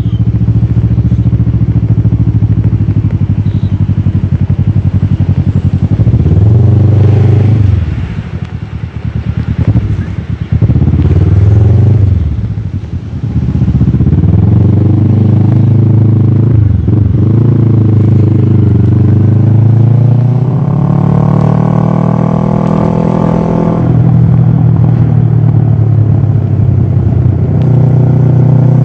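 Kawasaki ER-6f's parallel-twin engine through a full Akrapovic exhaust, heard from the moving bike. Its note has several brief dips in the first half, then rises steadily in pitch under acceleration and drops back near the end.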